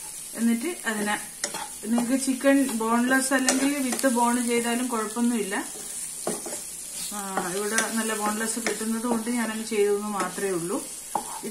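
Chicken cubes in masala sizzling in a non-stick pan while a wooden spatula stirs and knocks them about. Louder than both is a wavering pitched sound with overtones, in two long stretches of a few seconds each.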